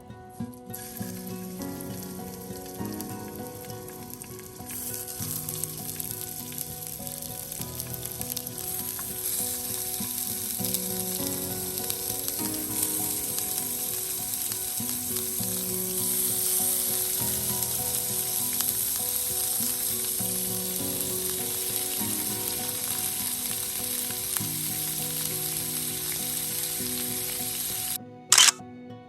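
Meat-wrapped asparagus sizzling as it fries in oil, a steady hissing crackle that swells a few seconds in and then holds. Near the end the sizzle drops away and there is a single sharp click.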